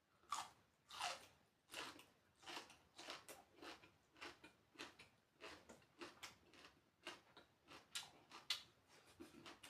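A person chewing food with the mouth close to the microphone: soft, wet chomps repeating steadily, about one to two a second.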